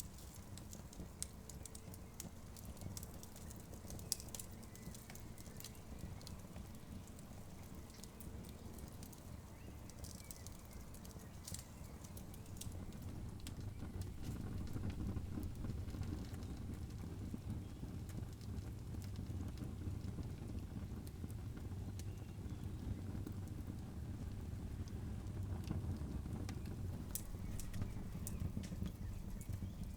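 Campfire burning with scattered sharp crackles and pops over a steady low rumble; the rumble grows louder about halfway through.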